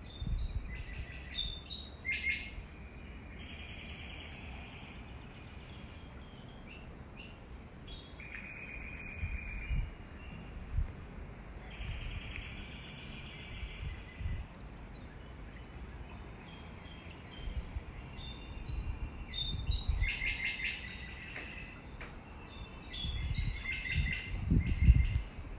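Small birds chirping and trilling in repeated short bouts, some calls a fast buzzy trill held for a second or two. Low rumbles sit underneath, strongest near the end.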